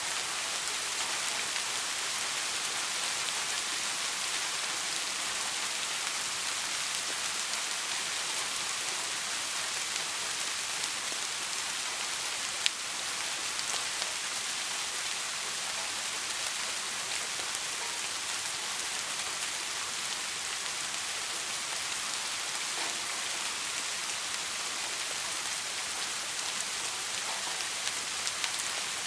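Steady soft rain, an even hiss of falling drops, with a single sharp tick about halfway through.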